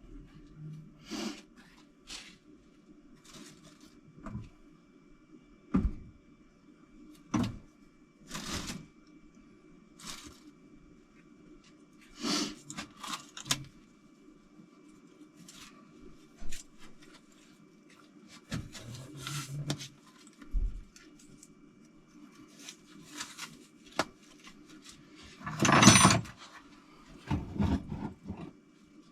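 Scattered knocks, clicks and rustles of objects being handled and set down, over a steady low hum. A longer scrape or rustle about 26 seconds in is the loudest sound.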